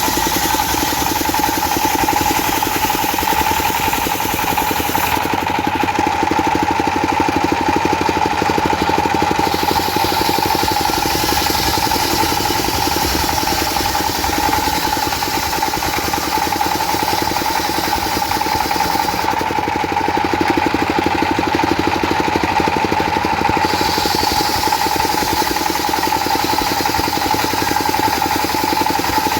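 Diesel-engine-driven circular saw running steadily, with a constant whine over the engine's clatter. The sound changes twice for about four seconds each, about five seconds in and about twenty seconds in.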